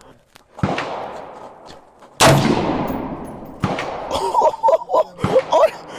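Three rifle shots about a second and a half apart, each with a long echoing tail; the second is the loudest.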